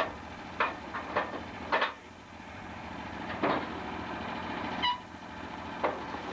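An engine running steadily, with about five sharp knocks and one short, high squeak about five seconds in.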